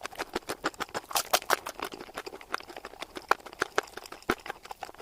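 Chewing crunchy food: a dense, irregular run of crisp crunching clicks.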